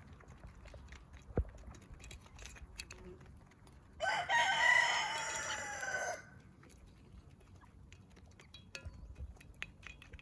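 A rooster crowing once, a single call about two seconds long starting about four seconds in, with a few faint clicks before and after it.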